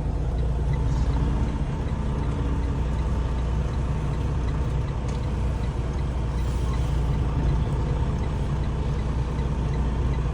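Semi-truck engine running steadily with a low rumble while the truck reverses slowly into a loading dock. A faint regular ticking, about two or three a second, sounds over it.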